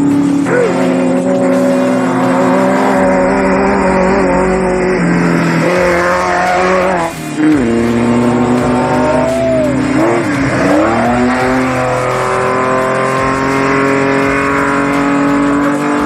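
Off-road race vehicle engines running and revving, the pitch shifting as they change speed. A brief dip and swoop comes about halfway through, and a falling-then-rising sweep a few seconds later.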